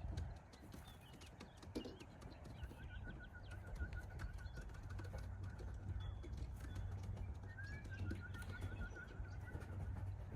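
Birds outdoors: a rapid, high trill of short repeated notes, heard twice, with scattered light clicks.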